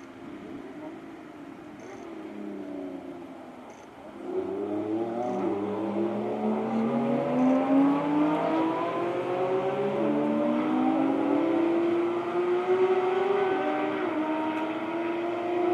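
Lamborghini Revuelto prototype's V12 engine accelerating. It is quieter for the first few seconds, then from about four seconds in much louder, its pitch climbing steadily with a couple of abrupt steps.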